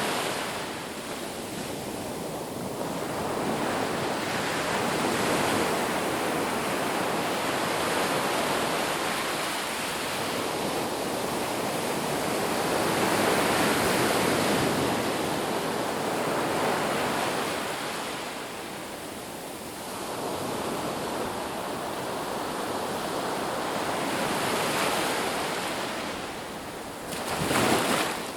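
Ocean surf breaking on a beach: a continuous wash of waves that swells and recedes every few seconds, with one louder wave crashing near the end.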